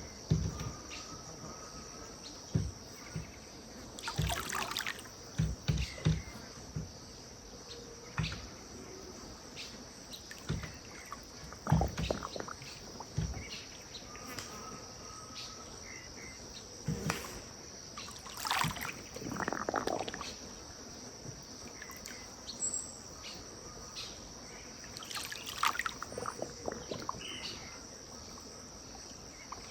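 Riverbank ambience: a steady high-pitched insect drone, water lapping and splashing with scattered low knocks, and a few short bird calls.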